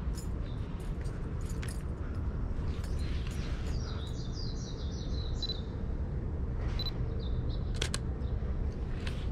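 Steady low hum of the waking city, over which a bird sings a quick run of high notes stepping downward about three seconds in, then two short high notes a little later. A few sharp clicks come from the camera being handled and fired, the clearest near the end.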